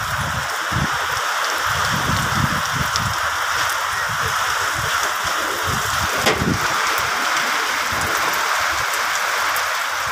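Heavy rain falling steadily, a continuous even hiss with an uneven low rumble underneath.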